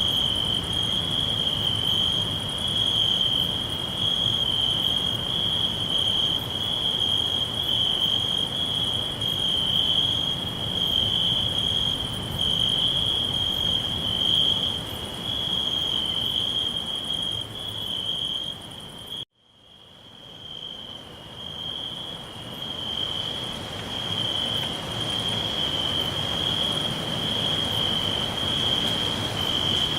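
Crickets chirring steadily on one high, continuous note over a faint low background hiss. About two-thirds of the way through, the whole sound cuts out abruptly for a moment and fades back in, like a splice in a looped recording.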